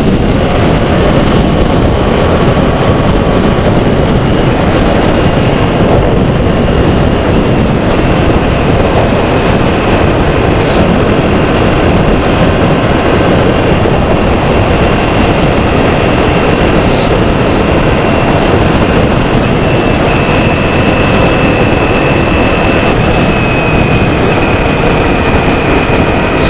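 Kawasaki Z400 parallel-twin with a Toro slip-on exhaust, cruising at a steady speed; the engine and exhaust are heard under heavy wind rush on the microphone. A faint high whine holds steady.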